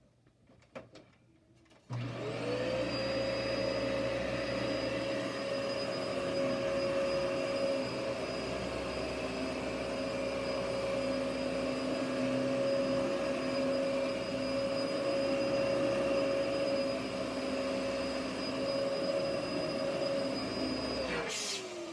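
Dyson DC07 upright vacuum cleaner switched on about two seconds in, its motor whine rising quickly to a steady pitch, running steadily while vacuuming carpet, then switched off near the end with the whine falling away.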